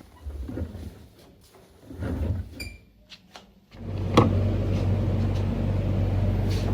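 A few soft knocks of kitchen handling, then a short electronic beep. About a second later a kitchen appliance starts running with a loud, steady electrical hum, with a sharp click just after it starts.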